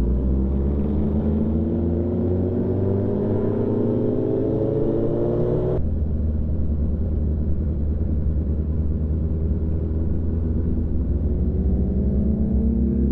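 Motorcycle engine accelerating, its pitch climbing steadily for several seconds; it then cuts suddenly to a steady low drone while cruising, and starts climbing again near the end.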